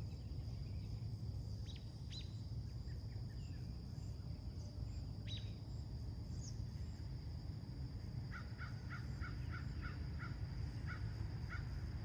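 Birds calling outdoors: a few sharp, quick chirps in the first half, then a run of about eight short, evenly repeated calls, roughly three a second, near the end. A steady low rumble and a steady high thin tone run underneath.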